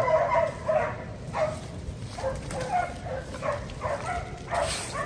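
Laika hunting dogs barking steadily in quick repeated barks, several a second: tree barking, the bay that holds a treed bear.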